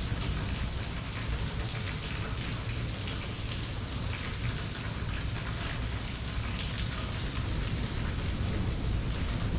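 Steady rain falling, with dense drops pattering on surfaces and a continuous low rumble underneath.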